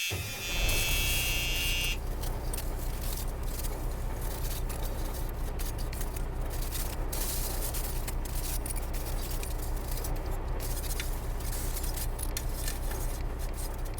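An engine catches just after the start and runs steadily with an even low rumble. A high, steady buzzer tone sounds over it for the first two seconds, then stops.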